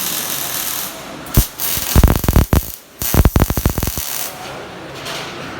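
A single sharp metal knock, then two quick runs of rapid knocks and rattles with a short pause between them, as of a hand tool worked against steel.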